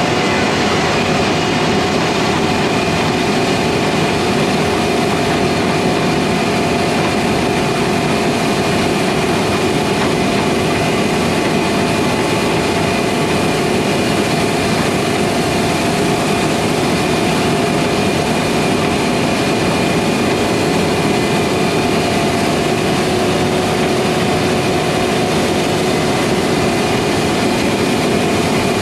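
Heavy farm machinery running steadily at a constant loud level, with an even drone that holds a few fixed tones throughout.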